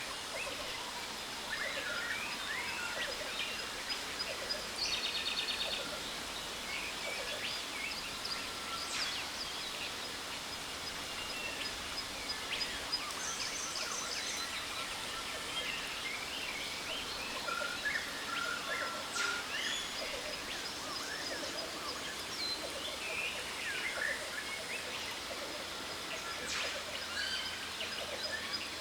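Jungle waterfall ambience: a steady rush of falling water under many scattered bird chirps and calls, with a short rapid trill about five seconds in and a thin steady high-pitched tone.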